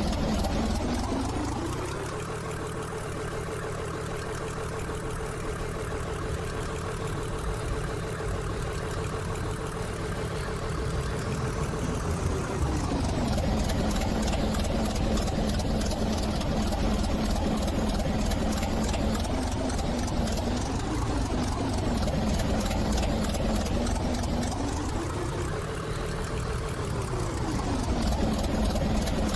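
A train running, with a steady drive hum over rumbling noise. Its tone rises in pitch about a second in, holds, falls back around twelve seconds in, and rises and falls once more near the end.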